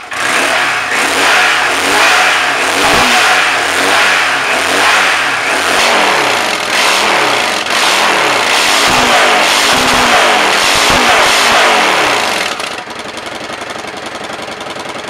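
Yamaha XVS650A Dragstar Classic V-twin with its stock mufflers' end-cone baffle plates drilled out, revved repeatedly in quick blips. It settles back to a steady idle near the end. The exhaust note is a lot louder than stock.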